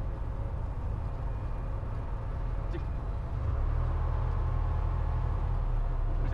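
Cessna 172's piston engine running at low power while taxiing, a steady low rumble heard from inside the cabin; it grows louder and steadier a little over halfway through, as with a touch more throttle.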